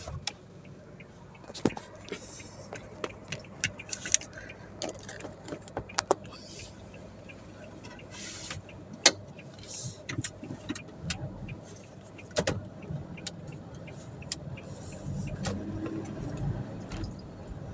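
Sounds in and around a car: irregular sharp clicks and knocks, a short hiss about eight seconds in, and a low rumble that grows stronger near the end.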